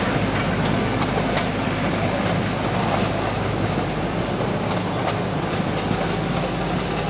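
A 2 ft gauge narrow-gauge passenger train passing at close range. Its coach wheels give irregular clicks over the rail joints, over a steady low hum from the Alan Keef diesel locomotive.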